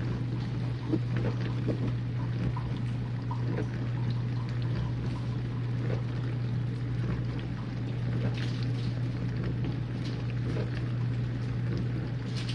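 Whirlpool dishwasher running mid-cycle: a steady pump hum with water spraying and splashing inside the tub.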